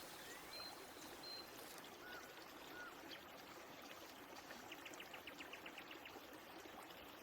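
Faint outdoor woodland ambience: a steady low hiss with a few short bird chirps, and a quick run of about a dozen ticks about five seconds in.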